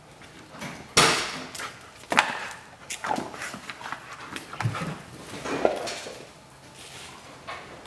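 Porsche 964 RSR's air-cooled flat-six struggling to idle, firing unevenly in irregular sharp bursts roughly a second apart, the loudest about a second in: it is running too lean at idle.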